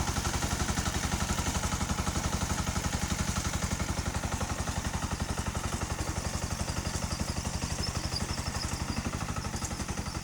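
Tractor engine running steadily with an even, rapid pulsing beat.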